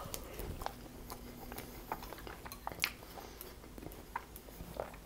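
Chewing a forkful of taco filling: soft mouth sounds with scattered small clicks, one sharper than the rest a little before three seconds in. Near the end a metal fork taps and scrapes on the plate.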